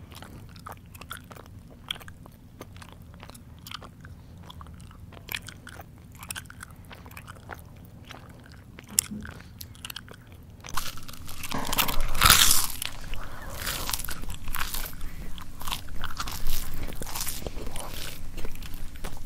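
Close-up human chewing: scattered soft mouth clicks and smacks, then, a little past halfway, much louder and denser crunching that keeps going.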